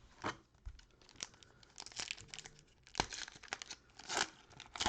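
Cellophane wrappers of trading-card packs being crinkled and torn open, with cards handled, in irregular rustles and sharp snaps; the sharpest snaps come just after the start, about three seconds in and just past four seconds in.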